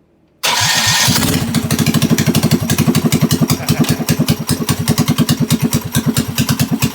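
Minibike engine starting suddenly about half a second in and then running with a rapid, even firing beat, with the choke still left on.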